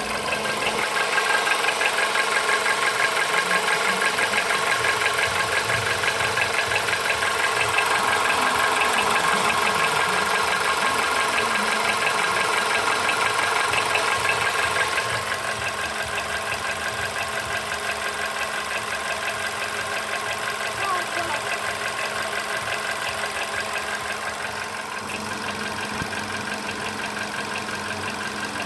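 Volkswagen Polo Sedan engine running at idle with a rapid, rhythmic knock; the cause of the knock is unknown to the owner. The sound steps down in level about halfway through.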